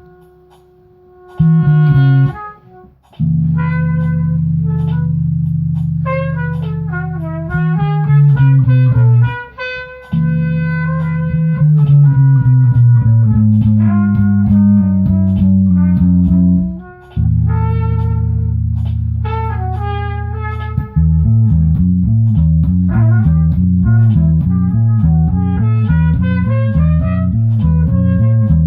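Instrumental jam on bass and guitar. The bass holds long low notes and slides between them under ringing guitar notes. About two-thirds of the way through, the bass switches to a quick repeating line.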